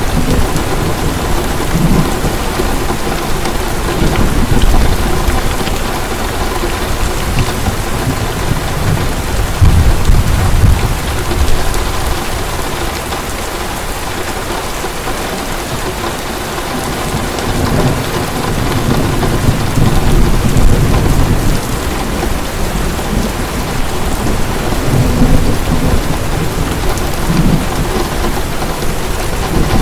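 Heavy rain falling steadily, with low rolls of thunder that swell and fade several times, the strongest about ten and twenty seconds in.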